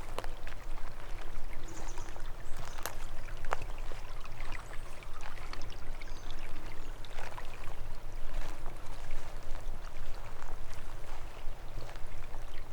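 Small forest stream trickling and splashing, with many irregular little drips and splashes, over a steady low rumble.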